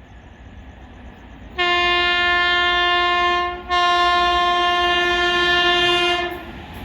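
Locomotive horn of an express train sounding two long steady blasts with a short break between them, each about two seconds long. Train noise starts building near the end.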